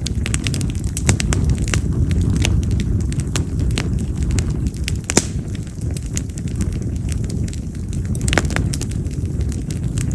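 Wild cherry (yamazakura) firewood burning in an open campfire. Irregular sharp pops and crackles, one louder snap about halfway through, sound over a steady low rumble.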